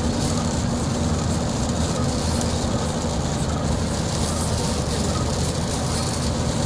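Heavy rain and wind in a thunderstorm, a steady, even roar.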